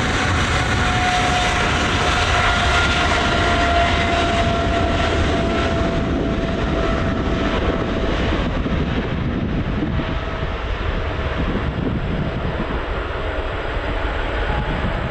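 Jet engines of a widebody airliner: a loud, steady rumble with a high whine that slides slowly down in pitch as the jet passes and draws away. The hiss and whine fade over the last few seconds.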